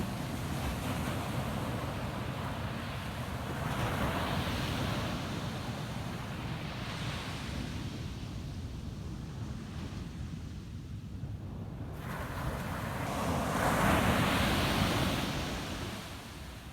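Ocean waves breaking and washing up a sandy beach: a steady surf hiss that swells as each wave comes in, the biggest wave near the end.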